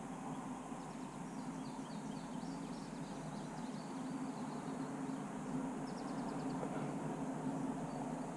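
Steady low outdoor background rumble, with a faint high trill of rapid notes about a second in and again about six seconds in.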